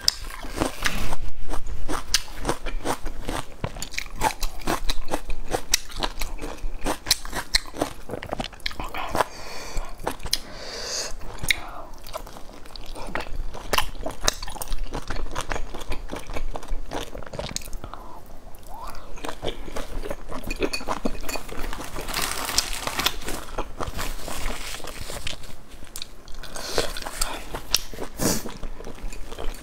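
Close-miked eating of a large soft dumpling: biting and chewing with a dense run of wet mouth clicks, and a longer hissing stretch about 22 seconds in.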